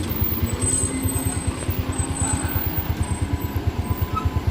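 Diesel engine of a Mitsubishi light truck running with a fast, even low throb as it works along a steep, slippery road.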